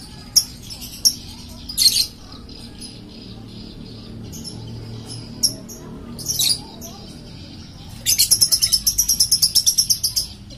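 A small animal's high chirps, a few single calls spaced a second or more apart. Near the end comes a rapid trill of about eight notes a second, lasting about two seconds.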